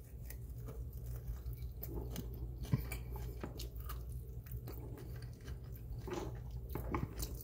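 A person eating a sauced chicken wing: biting the meat off the bone and chewing, with scattered small mouth clicks.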